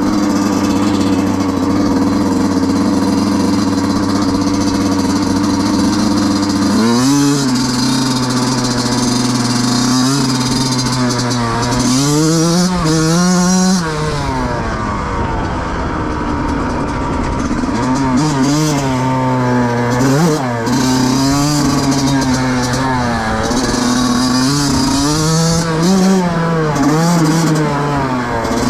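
2005 Yamaha YZ125's single-cylinder two-stroke engine idling steadily, then revved up and down repeatedly from about a quarter of the way in, with one longer climb in pitch and a run of shorter blips later on.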